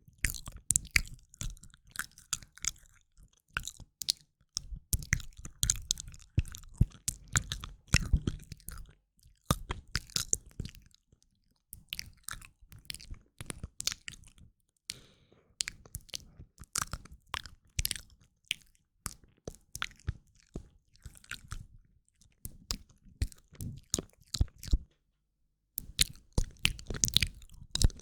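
Close-miked ASMR mouth sounds: rapid wet clicks and smacks of tongue and lips in bursts separated by short pauses.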